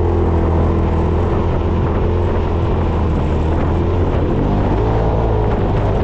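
Side-by-side UTV engine running steadily under way on a trail, its note dipping slightly and picking up again about two-thirds of the way through.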